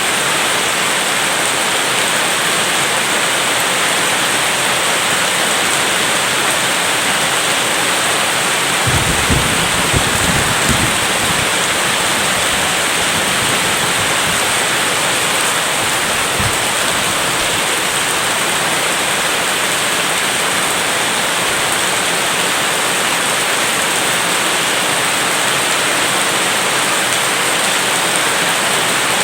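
Steady rain falling in a thunderstorm, with a low thunder rumble lasting about two seconds around nine seconds in and a brief low thump a few seconds later.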